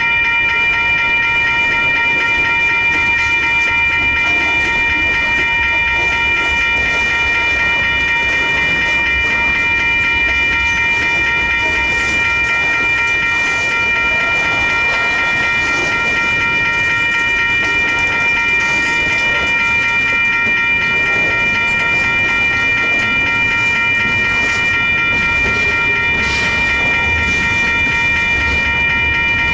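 Freight cars rolling slowly over the crossing: a steady low rumble of wheels with occasional clacks over the rail joints. Under it, the grade-crossing warning bell rings continuously as a steady high ringing.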